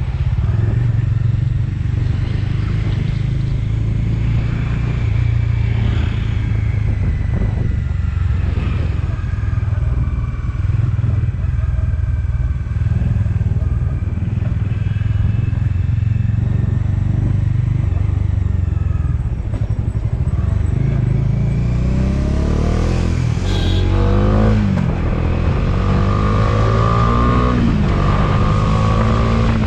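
A motorcycle running on the move, with a steady low rumble of engine, wind and road noise. Near the end, sweeping rising-and-falling tones and a held high tone come in over it.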